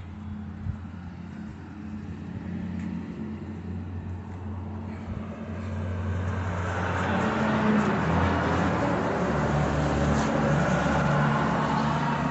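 A motor vehicle's engine running with a steady low hum that grows louder from about halfway through.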